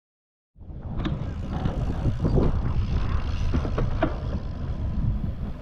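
Wind buffeting the microphone of a moving bicycle, a steady low rumble that cuts in abruptly about half a second in, with a few sharp clicks, one about a second in and another near four seconds.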